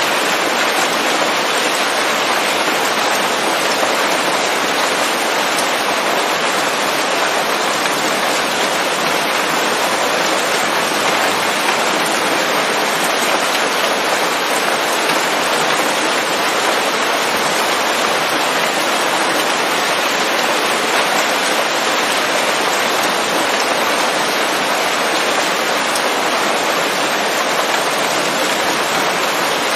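Steady rain falling on leaves, an even, unbroken hiss that holds the same level throughout.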